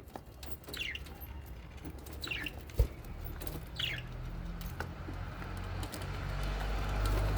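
Small pet parrots giving a few short, falling chirps, spaced out. There is a single sharp tap a little before three seconds in, and a low rumble grows louder near the end.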